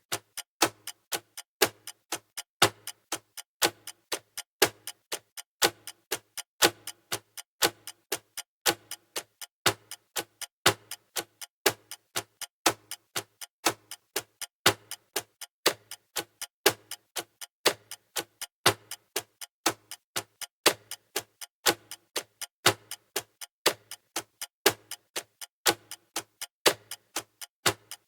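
Clock-style ticking sound effect of a countdown timer: sharp, even ticks, about four a second, with a louder tick about every two seconds.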